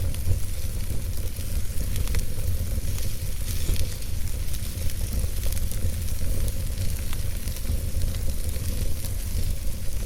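Wood logs burning in a fireplace: a steady hiss over a low rumble, broken by scattered sharp crackles and pops.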